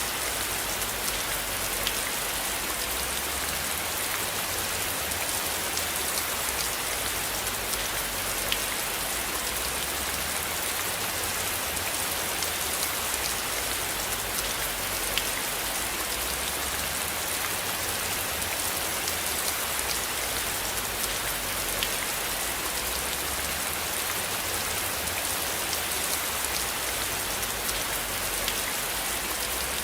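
Steady rain falling, a continuous hiss with individual drops ticking through it and a low rumble underneath.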